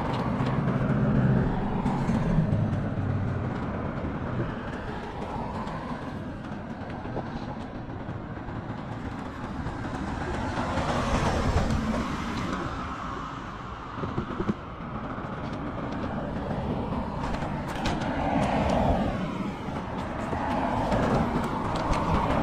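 Rumbling noise of a bicycle ride: wind buffeting the microphone along with riding noise. It swells and eases every few seconds.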